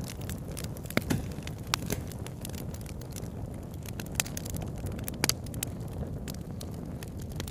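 Wood campfire crackling, with sharp irregular pops a few times a second at most, the loudest about a second in and a little past five seconds. Under it runs a steady low rush, which fits the river named with the fire.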